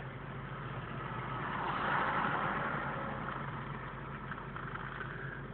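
Car engine and road noise, a steady low hum, with a broader rush of noise that builds to a peak about two seconds in and then fades.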